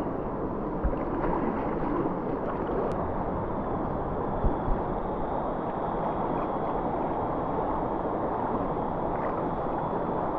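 River water rushing steadily, with a few brief low thumps: one about a second in and two close together near the middle.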